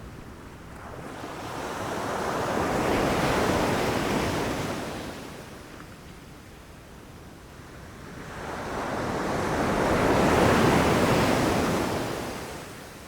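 Ocean waves surging in and washing back: two swells of surf noise, each building over a few seconds and fading away, with a quieter hiss between them.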